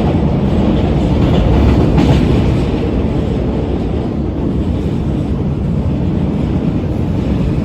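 Subway train running on the rails, a loud steady rumble with a brief rise in higher rattling noise about two seconds in.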